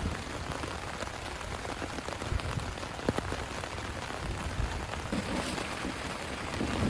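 Heavy rain falling steadily, with many separate drops ticking on a surface and one sharper hit about three seconds in.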